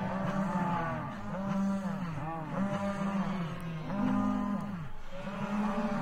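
Cattle mooing over and over, several moos overlapping, each about a second long and rising then falling in pitch.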